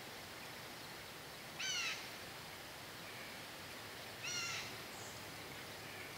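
A bird calls twice, two short pitched calls about two and a half seconds apart, over a steady outdoor hiss.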